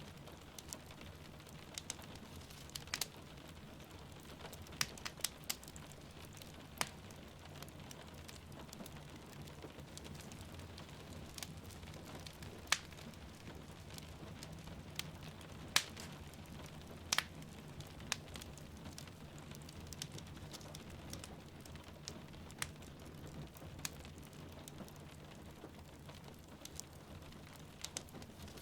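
A wood fire crackling, with irregular sharp pops and snaps over a steady hiss of rain.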